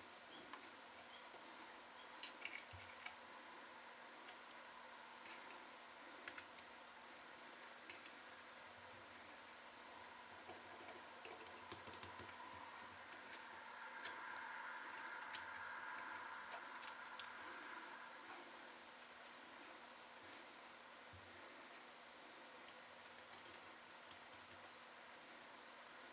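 Faint cricket chirping steadily, about two short high chirps a second, with a few small clicks.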